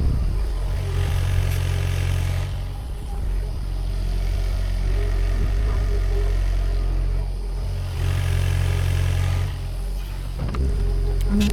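Sany SY50U mini excavator's diesel engine running steadily, with a high whine swelling twice as the machine works under load, and a few sharp clanks near the end.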